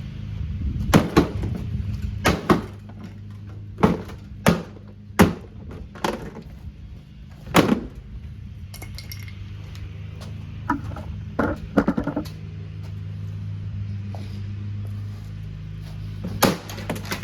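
A Kuppet portable washing machine's plastic body being struck and broken apart: about nine hard hits in the first eight seconds, then a few lighter knocks, and another hard hit near the end. A steady low hum runs underneath.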